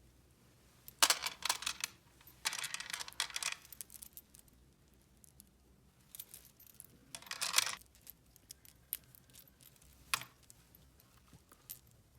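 Small toys or their packaging being handled: bursts of rustling and crinkling about a second in, again around three seconds and near seven seconds, and then a single sharp click about ten seconds in.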